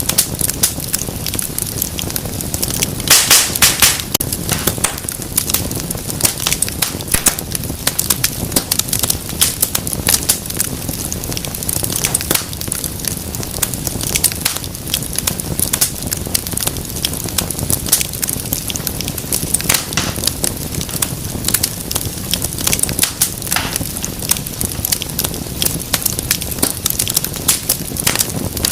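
Wood fire burning in a fireplace: a steady flame rush with constant crackling and sharp pops, a dense run of loud snaps about three seconds in.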